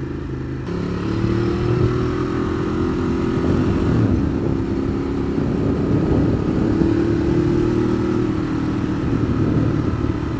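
Ducati Monster 821's 821 cc L-twin engine pulling under way, with wind rushing over the microphone. About a second in the engine note and the wind noise change, then the engine runs on with its pitch rising and falling with the throttle.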